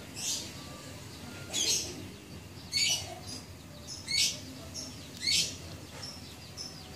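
A bird chirping: five short, high chirps at an even pace, about one every second and a quarter.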